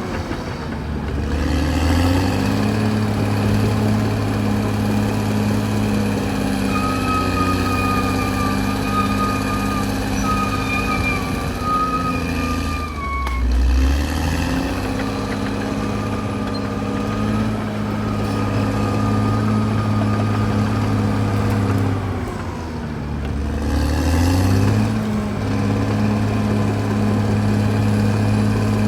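CAT D6R bulldozer's diesel engine running hard, its pitch dropping and climbing back three times, about a second in, near the middle and around two thirds of the way through, with a thin high whine coming and going in between.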